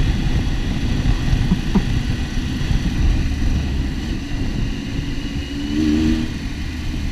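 Motorcycle riding at speed, its engine running under a heavy rumble of wind on a helmet-mounted camera, with a brief wavering tone near the end.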